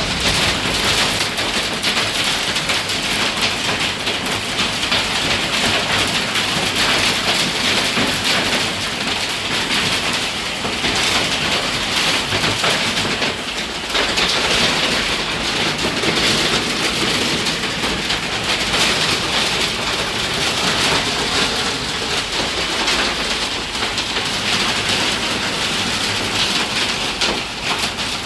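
Heavy rain pouring down steadily in a dense, hissing downpour, easing briefly about halfway through.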